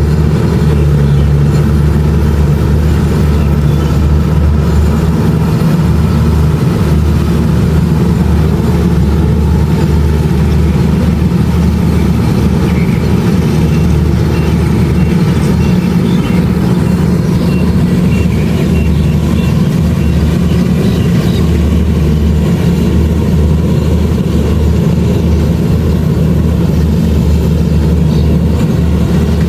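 Kubota DC-70 Plus rice combine harvester running steadily under load while harvesting, a constant low engine drone that neither rises nor falls.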